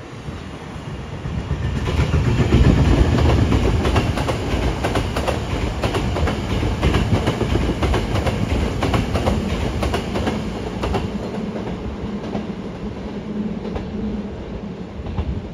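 Electric commuter trains passing on elevated track. The rumble builds about two seconds in and stays loud for several seconds as a train goes close by, its wheels clattering quickly over the rail joints. It then eases to a steady low hum as a Hankyu 1300-series train approaches round the curve.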